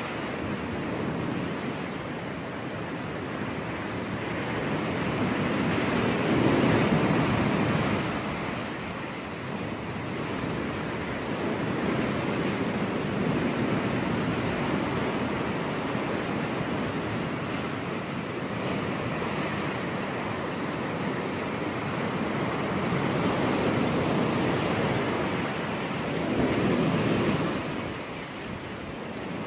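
Ocean surf breaking on a beach: a steady rush of waves that swells and falls back every few seconds, loudest as waves break about a quarter of the way in and again near the end.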